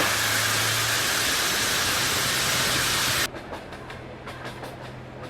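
Train at a station: a loud, steady rushing with a low hum, which cuts off abruptly about three seconds in, followed by quieter rail noise with irregular clicks.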